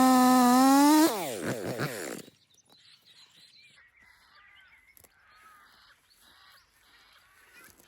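Stihl two-stroke chainsaw running at full revs, then let off: the engine note falls away quickly and the saw stops about two seconds in. Faint bird calls follow.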